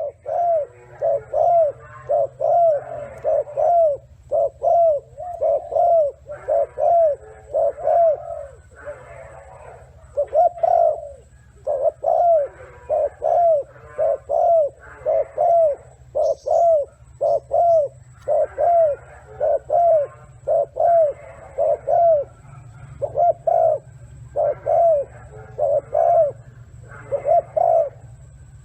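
A bird calling in a long run of short, low, arching notes, about two a second with brief pauses, over a steady low hum.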